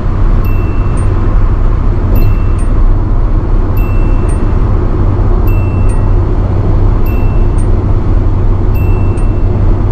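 Inside a 1985 Nissan Sunny B12 at highway speed, the dashboard warning chime sounds a two-note ding-dong about every one and a half seconds, over the steady drone of the engine and tyres. This is the overspeed warning chime that Japanese cars of this era sounded above about 105 km/h.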